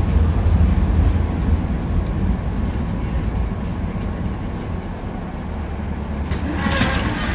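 Tram running on rails, heard from inside the car: a low rumble that grows quieter as the tram slows, as when it draws into a stop. A short burst of clattering and hiss comes near the end.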